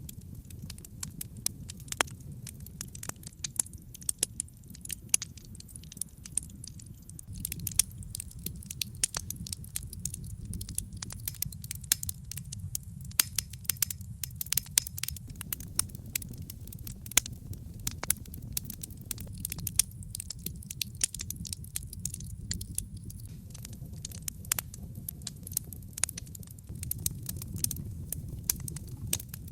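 Wood logs burning in a fireplace, crackling with many irregular sharp pops over the low steady rumble of the flames.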